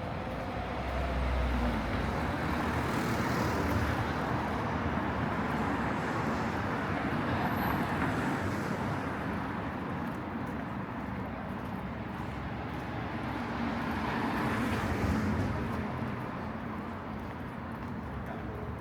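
Road traffic on a city street: a steady hum of cars, with vehicles passing that swell louder twice, about two seconds in and again near the three-quarter mark.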